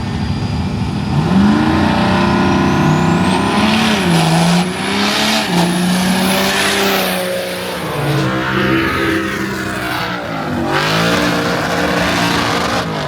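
Drag-racing vehicle launching and running hard down the strip: the engine's pitch climbs and drops several times as it revs and shifts, with a thin high whistle rising over the first few seconds and a loud rush of exhaust and tyre noise.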